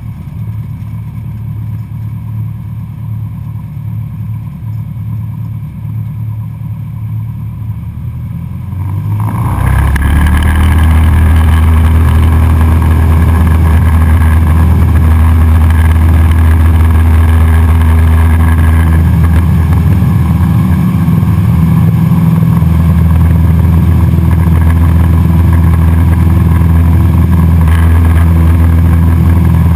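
Cessna 172SP Skyhawk's four-cylinder Lycoming IO-360 engine and propeller running at low power, then throttling up sharply about nine seconds in to a loud, steady high-power run.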